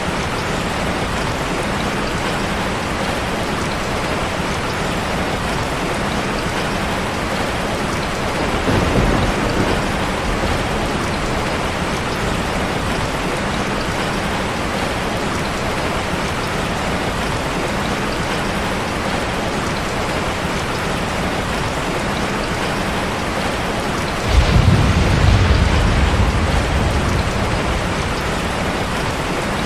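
Steady, even rainfall, with a short low rumble of distant thunder about nine seconds in and a louder roll of thunder that breaks suddenly near the end and fades away over several seconds.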